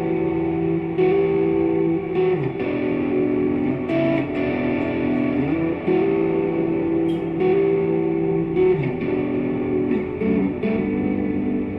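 Electric guitar played through a pedalboard of effects: picked and strummed chords ring out and sustain into each other, and the chord changes every second or two.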